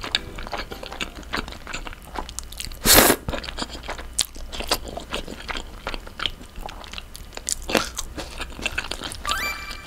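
Close-miked chewing of creamy linguine topped with sliced raw green chili peppers: wet mouth clicks and small crunches throughout, with a short loud slurp about three seconds in.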